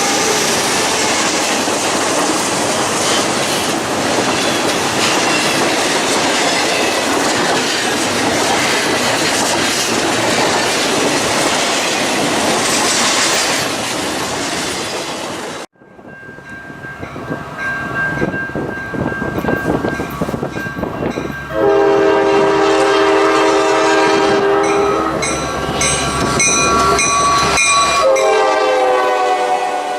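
A train passing close by, a loud steady rush of wheel and rail noise. After a sudden cut about halfway, another train approaches and its locomotive air horn blows a multi-note chord in two long blasts near the end.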